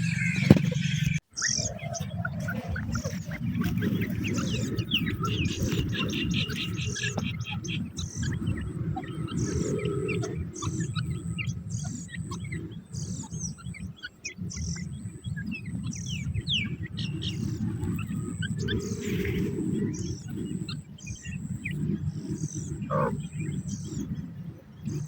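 Birds chirping and calling over a steady low rumble, with many short rising chirps and a short high note repeating at regular intervals through the second half.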